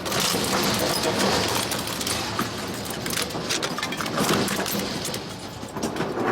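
Industrial shredder tearing up a motorcycle engine: a continuous grinding clatter of metal, broken by frequent sharp cracks and clinks as parts break.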